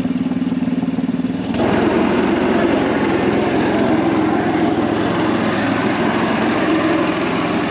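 Predator 212 single-cylinder four-stroke engine of a mini jet boat running at a low, steady speed, then throttled up about a second and a half in and held at high revs.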